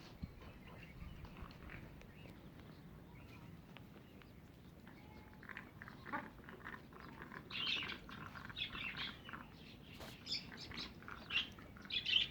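Caged birds chirping: short, scattered calls that start about five seconds in and grow busier towards the end.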